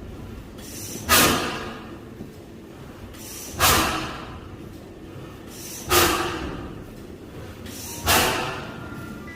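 A large 1909 Otto Deutz single-cylinder stationary engine running slowly, firing with a heavy bang about every two and a half seconds, four times, each bang ringing out before the next.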